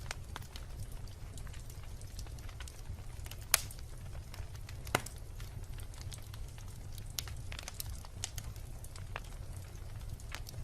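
Wood bonfire burning, with a steady low rumble of flames and irregular crackling, and two louder pops about a third and halfway through.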